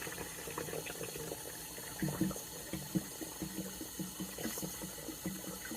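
Water running steadily from a kitchen tap, filling containers with drinking water for storage, with a few small knocks of the containers from about two seconds in.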